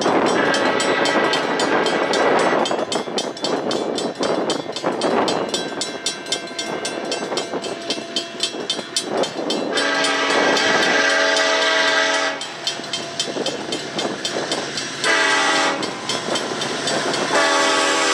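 Mechanical railroad crossing bells ringing in a rapid, steady beat while a train passes and sounds its horn: a long blast past the middle, a shorter one, then another long one starting near the end.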